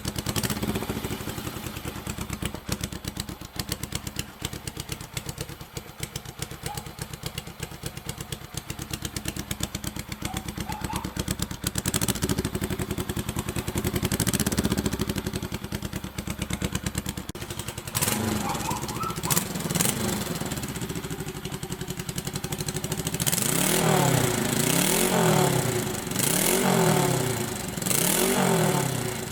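Honda CL72 scrambler's 250 cc parallel-twin engine idling with an even exhaust beat through its upswept pipes. It revs up briefly about twelve seconds in, and near the end the throttle is blipped several times in a row, each rev rising and falling.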